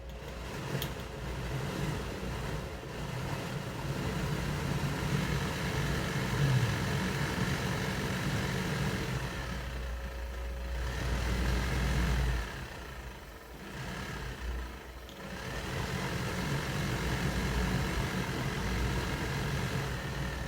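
Factory-original heater blower motor of a GXS12 Toyota Crown running with the abnormal noise it has developed with age: a steady mechanical whir over a low hum. The whir's pitch sags and recovers twice, and the sound drops off for a couple of seconds about two-thirds of the way through.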